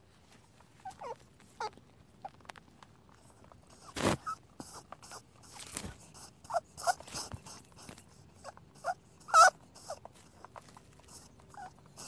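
Rabbits squeaking in short, high chirps, scattered among clicks and light rustling. A sharp knock comes about four seconds in, and the loudest squeak comes near the end.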